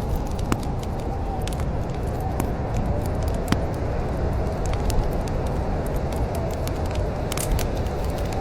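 Wood fire crackling in a fireplace, with irregular sharp pops and snaps over a steady low rumble. A thin, wavering whistle runs faintly through the background.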